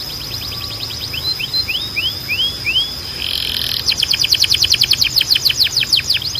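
Domestic canary singing: a rapid trill, then a short run of rising whistled notes, then a faster, louder trill of sweeping notes at about ten a second.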